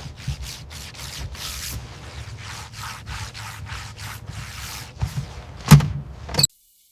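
Repeated rubbing or scraping strokes on a hard surface, about three a second, then a loud knock near the end before the sound cuts off abruptly.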